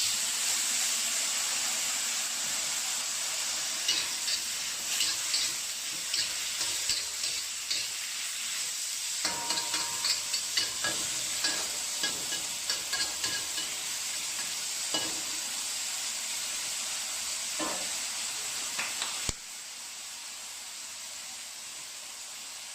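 Bamboo shoots and wild greens sizzling in a hot wok, stir-fried with a spatula that scrapes and clacks against the pan in quick strokes. Near the end the sizzle suddenly drops to a quieter hiss.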